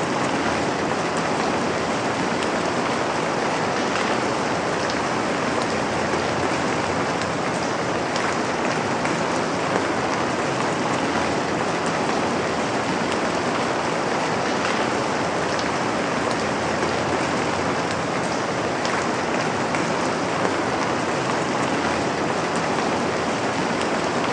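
Steady rain falling and pattering on a surface, even and unbroken, with scattered individual drop ticks.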